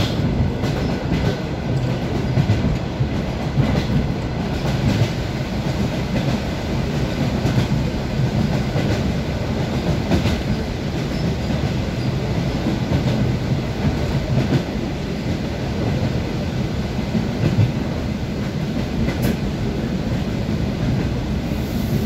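Wheels of an ED9M electric multiple unit clattering over the rail joints, heard inside the carriage: a steady running rumble with scattered sharp clicks.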